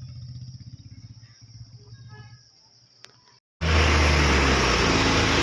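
A motor vehicle's engine running with a faint pulsing rumble, over a steady high insect-like hiss. About three and a half seconds in, the sound cuts abruptly to loud, steady engine and road noise with a strong low hum, like riding in a moving vehicle.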